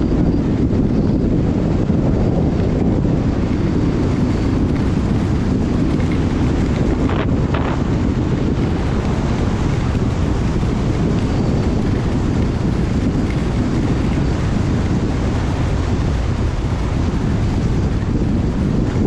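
Heavy wind buffeting the microphone of a skier speeding downhill at high speed, a loud steady rush without a break, with one short sharper sound about seven seconds in.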